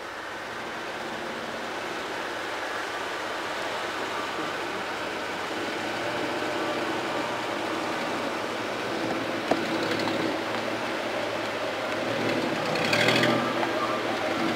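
Vehicle engine running, its sound growing gradually louder, with a brief louder rush of noise near the end.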